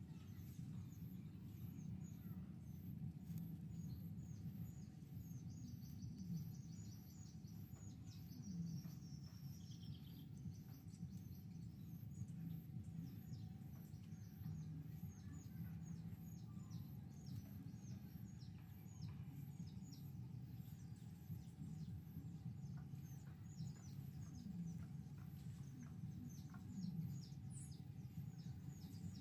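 Society finches chirping: many short, high chirps throughout, with a rapid trill of repeated notes a few seconds in, over a steady low hum.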